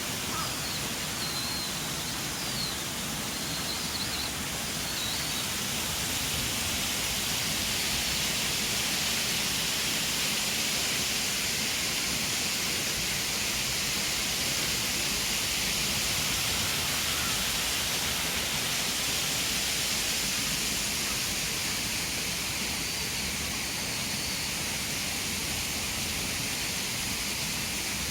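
Steady rush of running water, with a few short bird chirps in the first few seconds.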